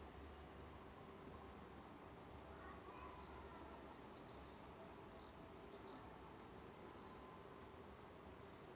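Faint outdoor ambience of a small bird chirping over and over, short high rising-and-falling chirps about twice a second, with a low rumble underneath.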